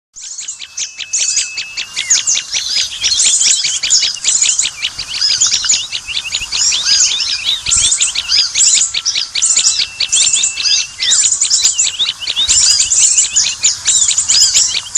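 A chorus of small birds chirping and calling together: dense, rapid, overlapping high chirps and trills with no break, and now and then one held, level whistled note.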